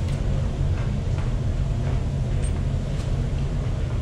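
Steady low rumble and hum from the hydroelectric generating units in the dam's powerhouse, with a few faint clicks over it.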